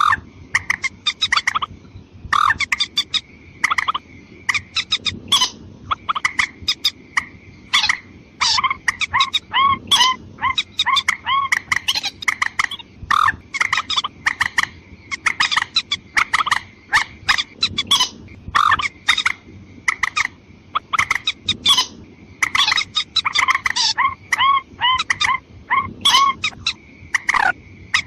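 Watercock calls: rapid runs of short, sharp notes, repeated over and over with brief pauses, with a steady high tone running underneath.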